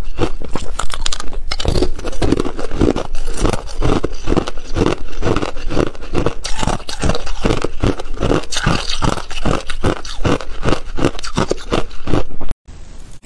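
Thin ice being chewed, loud crunching at a steady rhythm of about three to four crunches a second, cutting off abruptly near the end.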